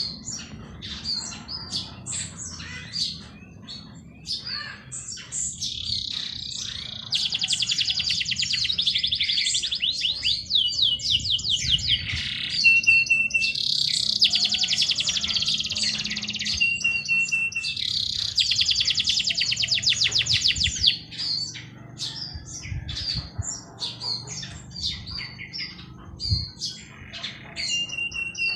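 Songbirds chirping and singing. Short high chirps come throughout, and from about a quarter of the way in to about three quarters through, one bird sings long, rapid trilled phrases of a few seconds each, some ending in a brief held whistle.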